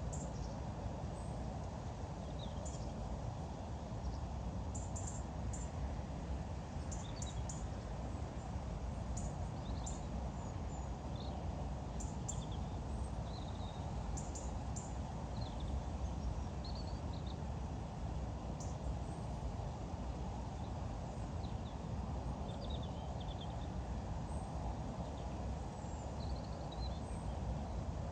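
Small birds chirping now and then in short high calls over a steady low background rumble.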